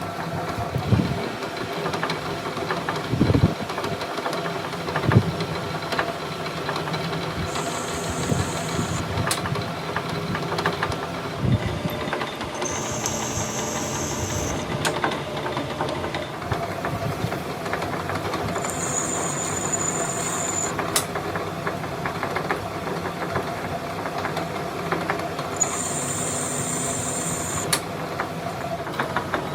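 Steady machine hum with a few dull knocks in the first dozen seconds and several brief high-pitched squeals spread through the rest.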